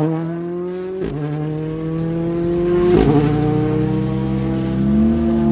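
Rally car accelerating hard on a stage, its engine note climbing through the gears with an upshift about one second in and another about three seconds in, each with a short crack.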